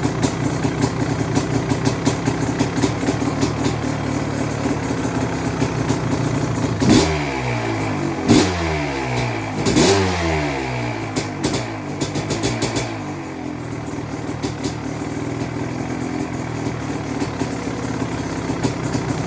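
1991 KTM 500 single-cylinder two-stroke idling, blipped three times in quick succession about halfway through, the revs falling back after each before it settles to idle again. Its PJ carburettor has been set richer, with a 52 pilot jet and the needle lowered one clip, to cure a surge at idle.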